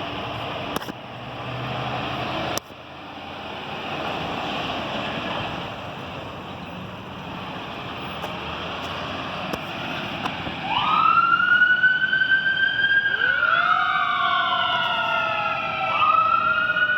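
Fire engine responding: vehicle and engine rumble, then about ten seconds in the siren starts, sweeping up into a loud wail that rises and falls, with a second overlapping siren tone.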